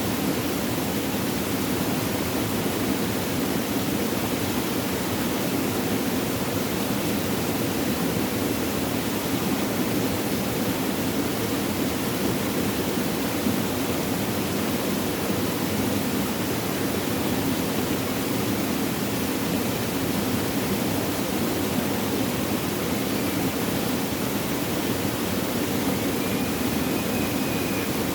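Flowing water rushing steadily: an even, unbroken noise with no pauses or changes.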